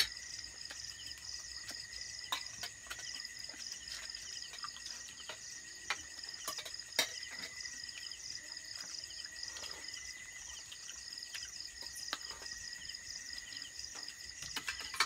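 Insects trilling steadily in a night chorus at a few high pitches, with a few faint clicks scattered through.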